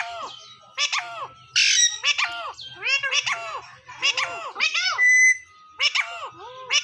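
Parrot giving a rapid series of short, arched squawking calls, with a harsh screech about one and a half seconds in and a brief thin whistle about five seconds in.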